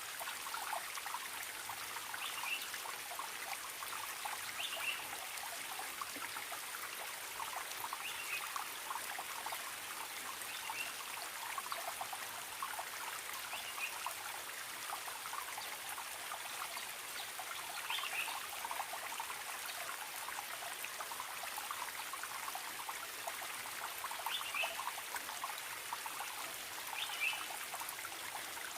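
Forest stream trickling and babbling steadily over stones, with a short high bird call repeating every few seconds.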